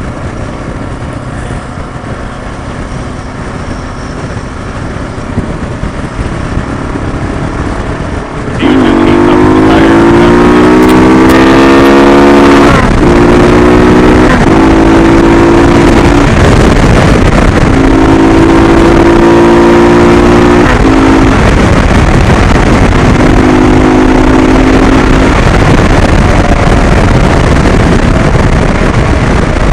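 Motorcycle engine running under way, with steady wind rush. About a third of the way in it gets much louder and its note climbs as the bike accelerates, then holds steady with several brief breaks.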